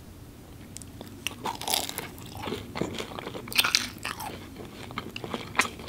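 Close-miked biting and chewing of a crisp fried samosa: the pastry crunches and crackles in a run of sharp bites starting about a second in, several of them loud.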